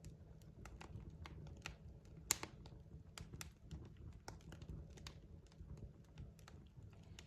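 Wood fire crackling in a fireplace, with many small irregular pops and one louder pop about two seconds in, over a faint low rumble of the burning logs.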